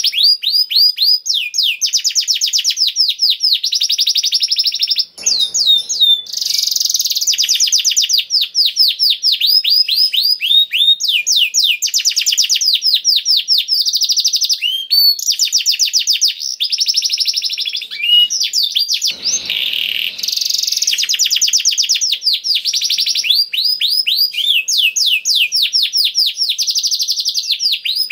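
Canary singing a long, unbroken song of rapid trills: runs of fast repeated notes, each sweeping down in pitch, following one another with barely a pause. A brief lower rustling noise comes about five seconds in and again near twenty seconds.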